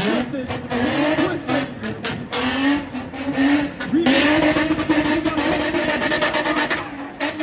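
A car engine revving hard, its pitch rising and falling repeatedly as the car is spun.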